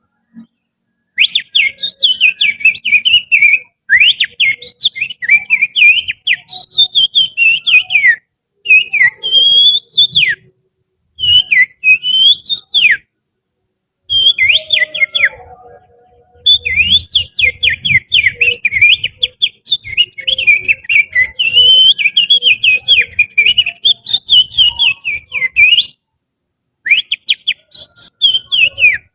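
Finger whistling that imitates the song of an oriental magpie-robin (kacer): rapid chirps, trills and slurred notes in phrases of a few seconds, broken by short pauses.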